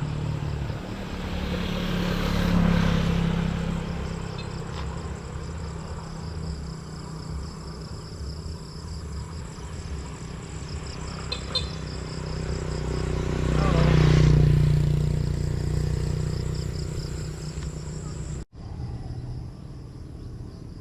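Motor vehicles passing twice: engine and road noise swells and fades about two seconds in, and again more loudly around fourteen seconds.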